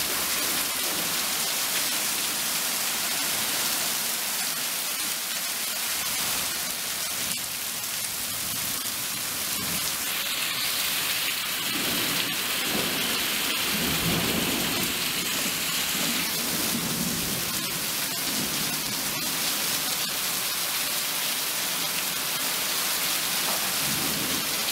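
Heavy rain pouring steadily onto surfaces, with a low rumble of thunder about halfway through.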